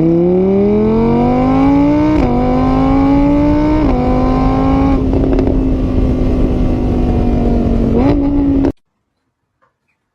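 An engine revving up through the gears: its pitch climbs, drops back at a shift about two seconds in and again about four seconds in, then holds steady before cutting off abruptly near the end.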